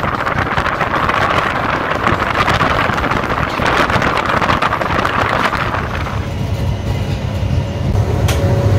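Passenger express train running on rails, heard from its open doorway: wheel-on-rail clatter with many rapid clicks and rushing air. About six seconds in, the sound changes to a lower, steadier rumble.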